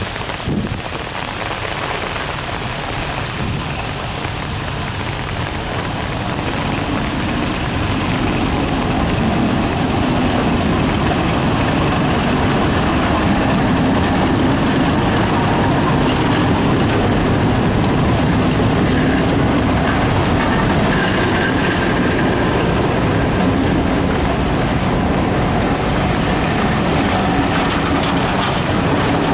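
Two diesel locomotives hauling a train of coaches approach and pass close by, engines running and wheels clattering over the rail joints. The sound grows louder over the first several seconds, then holds steady as the coaches roll past.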